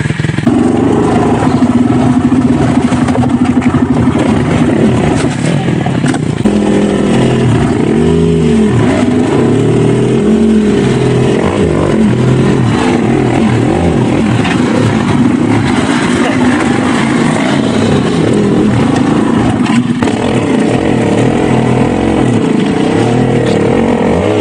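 Dirt bike engine running continuously, its pitch rising and falling as the throttle is opened and eased off again and again.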